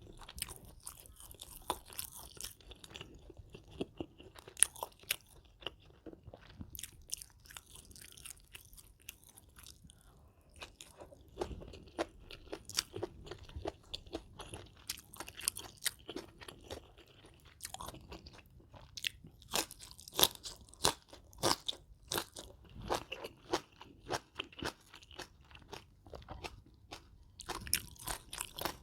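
Close-miked chewing of crisp food: a steady run of sharp, irregular crunches and bites.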